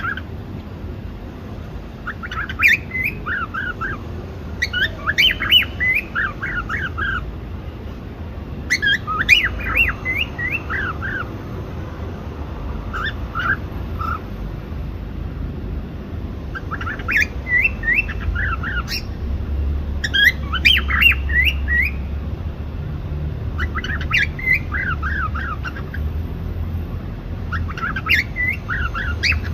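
Cockatiel calls: about eight short bursts of quick, high chirps, one every three to four seconds, over a low steady hum.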